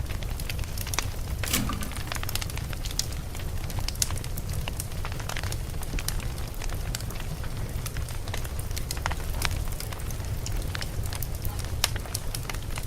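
Logs burning in a fireplace, crackling with frequent sharp pops and snaps at irregular intervals over a steady low rumble of the fire.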